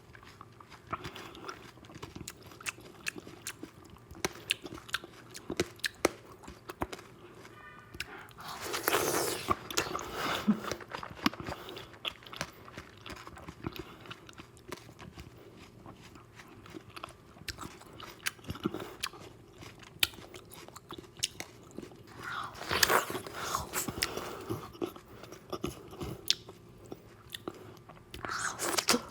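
Close-miked ASMR eating sounds of raw watermelon-and-egg soup: wet chewing and mouth clicks, with three louder, drawn-out slurps about nine seconds in, around twenty-three seconds, and at the end.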